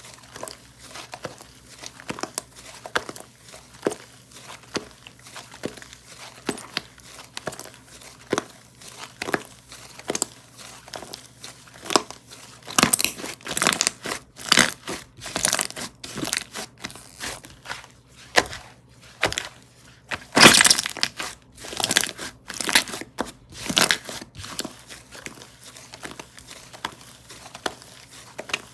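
Kokomo Slime's 'cotton diaper' slime being squished, pressed and stretched by hand, giving a dense run of small irregular pops and crackles. It grows louder for a few seconds about halfway through and again after about twenty seconds.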